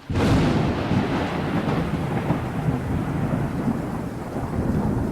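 Heavy typhoon rain pouring down, a dense, steady hiss with a deep rumble underneath; it cuts in suddenly.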